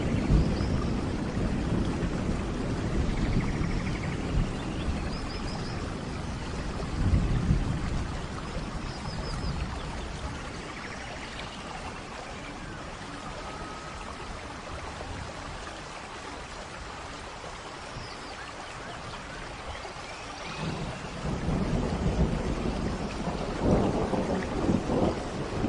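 Steady rain with rolling thunder, the low rumble swelling near the start, again about seven seconds in, and once more over the last few seconds.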